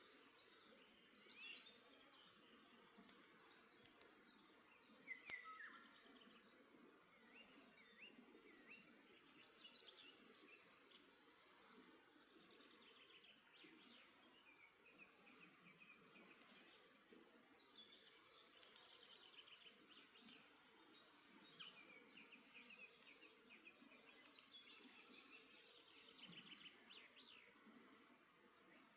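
Faint birdsong: several birds chirping and giving rapid trills throughout, over a low steady hiss, with a few sharp crackles from a wood campfire.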